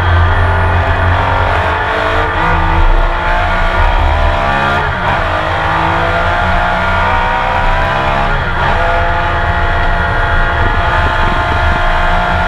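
Onboard sound of a Porsche 911 RSR's flat-six racing engine under hard acceleration, its pitch climbing through the revs and dropping at gear changes about two, five and eight and a half seconds in.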